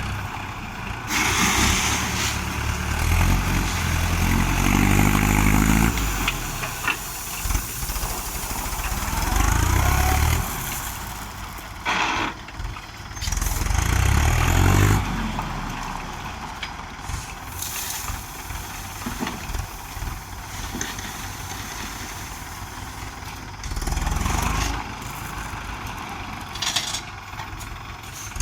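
Mahindra 475 DI tractor's diesel engine working under load while pushing and levelling soil with a front dozer blade, its revs rising and falling several times in the first half, then running more steadily with one more surge near the end.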